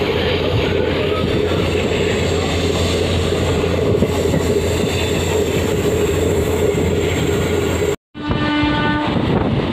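Steady running noise of a DEMU train heard from its open doorway: a constant rumble with a low hum. About 8 seconds in the sound drops out for a moment, then a train horn sounds for about a second.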